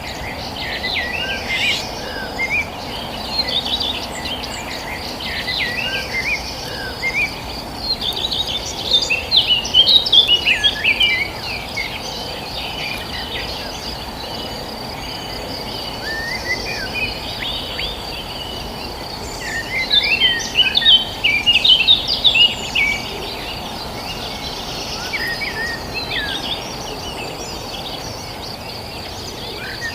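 Several wild birds chirping and twittering in quick, overlapping calls, busiest twice (about a third of the way in and again just past the middle), over a steady high insect trill and even low background noise.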